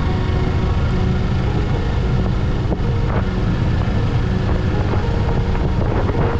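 Kawasaki Eliminator 500 parallel-twin engine running steadily while riding, mixed with a constant rush of wind noise.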